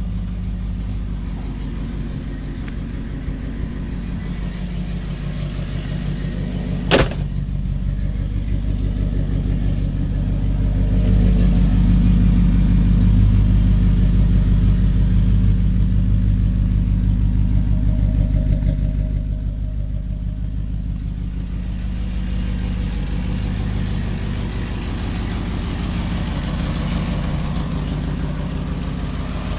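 1972 International Scout II engine running through its dual exhaust, mostly at a steady idle. It gets louder for several seconds in the middle, then settles back. There is a single sharp click about seven seconds in.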